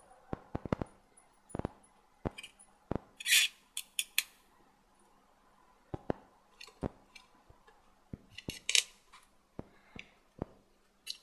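Scattered small clicks and taps with two brief rustles, about three seconds in and again near eight and a half seconds: hands working with small tools and gloves at a table while setting out a dead tarantula specimen.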